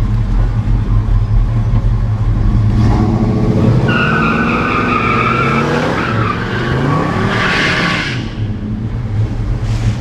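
Muscle car engines at a drag race: one idles steadily while another revs, rising in pitch from about three seconds in. Tyres squeal for a couple of seconds. The revving and squealing stop sharply about eight seconds in, leaving the idle.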